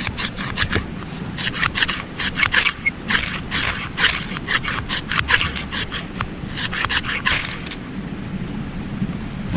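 A run of quick, irregular scraping strokes for about seven seconds, stopping near the end, over a steady low rush of stream water.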